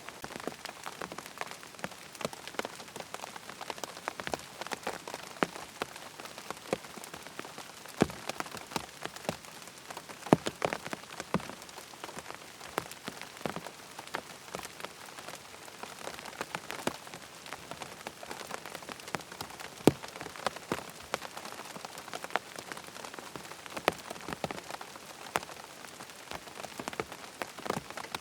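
Steady rain pattering on a tent's fabric, with many separate drops tapping sharply over a continuous hiss of rainfall.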